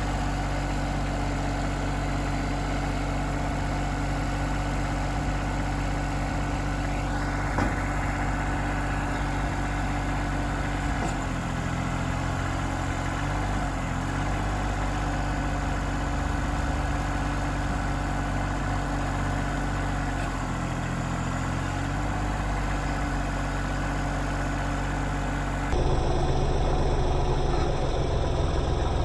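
John Deere 2210 compact tractor's three-cylinder diesel engine running steadily, its pitch sagging briefly twice, and louder for the last few seconds.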